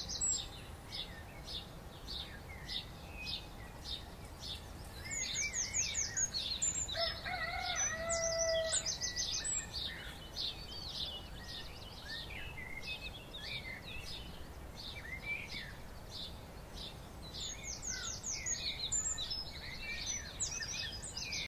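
Birds chirping and singing: many quick high chirps and short downward-sweeping notes, busiest from about five to nine seconds in, with a lower held whistle around eight seconds, over faint steady background noise.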